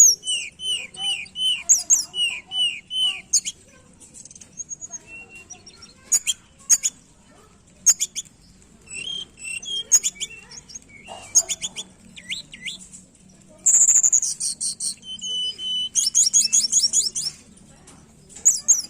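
Tledekan gunung songbird singing vigorously: quick phrases of high chirps, fast trills and repeated down-slurred notes, broken by short pauses.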